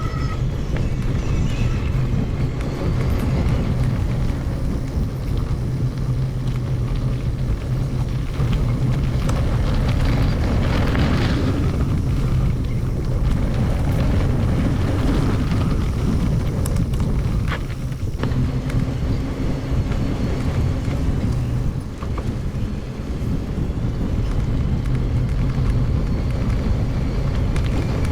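Steady wind rushing over the microphone with a low rumble, as from riding a mountain bike along a forest road.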